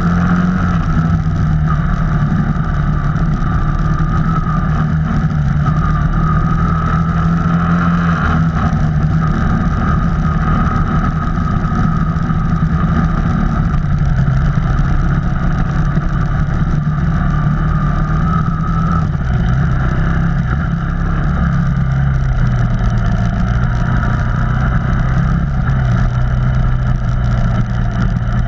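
Off-road vehicle engine running steadily over trail rumble, its pitch dropping in steps about halfway through and again about two-thirds in as the engine slows.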